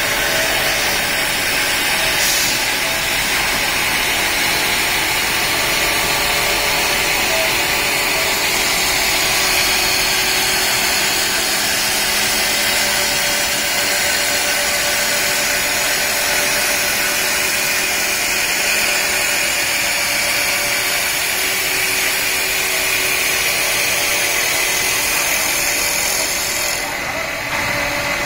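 Two-spindle CNC wood lathe (CW-1520-2) running, a steady machine noise with a thin high whine, dipping briefly near the end.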